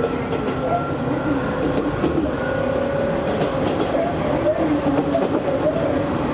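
Running noise inside an Izu Hakone Railway Series 3000 electric train car as it travels between stations: a steady rumble of wheels on rail with faint clicks over the track and a wavering hum from the drive.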